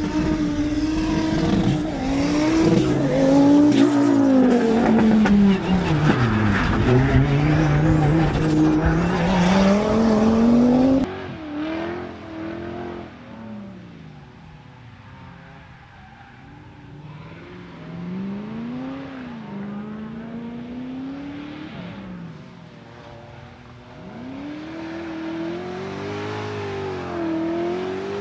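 Competition car engine revving hard, its pitch rising and falling with gear changes and throttle through the slalom, with some tyre squeal. About eleven seconds in an edit cuts to another, more distant car revving up and down through the course, getting louder near the end.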